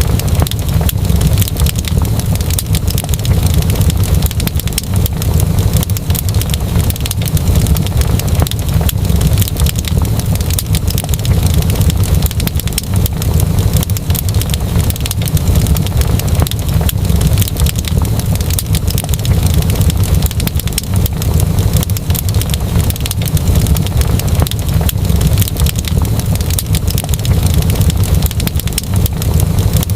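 Wood fire crackling: a steady stream of small irregular pops and snaps over a constant low rumble of the burning fire.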